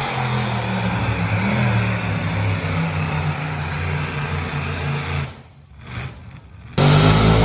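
Engine of a pulling tractor running under heavy load, a steady drone with small shifts in pitch. About five seconds in the sound falls away for over a second, then comes back abruptly louder near the end.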